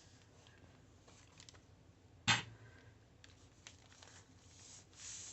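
Paper and craft pieces being handled on a work surface: faint rustles and small ticks, with one sharp tap a little over two seconds in.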